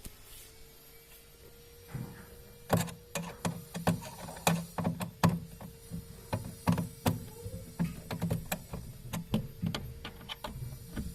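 A run of irregular clicks and knocks, several a second, from hands working on parts, starting about two seconds in, over a faint steady hum.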